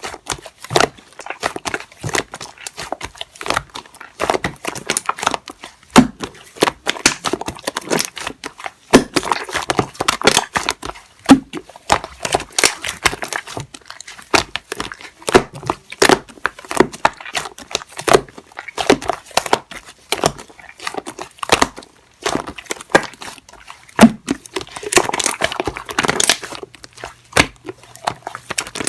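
Irregular close-up crinkling and crackling, broken by many sharp clicks and taps at uneven intervals.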